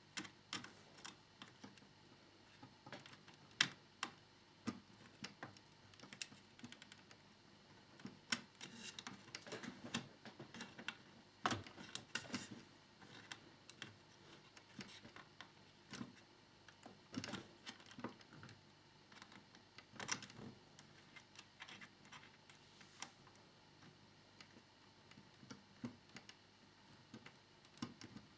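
Irregular light clicks and taps of hard plastic model fairing parts and small screws being handled and fitted.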